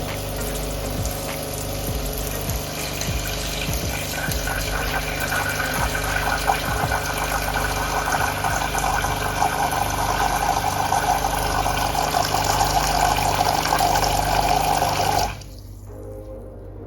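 De'Longhi Magnifica S espresso machine's pump running during a descaling cycle, with a steady buzz and water pouring out into a pot, growing a little louder. It cuts off suddenly near the end as the last stage of the descaling cycle finishes.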